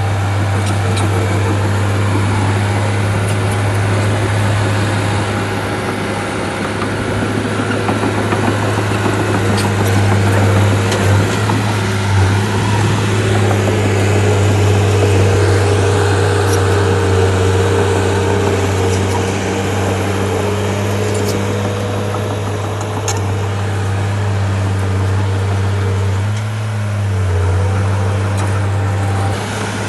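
Diesel engine of a Shantui bulldozer running steadily under work, its note dipping and shifting briefly near the end.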